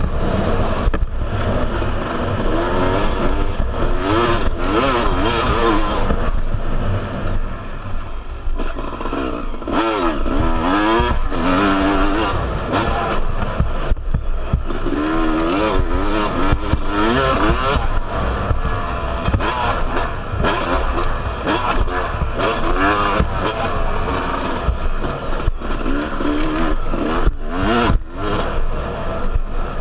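Yamaha YZ250 two-stroke motocross engine revving hard, then falling back again and again as the bike is ridden round a dirt track.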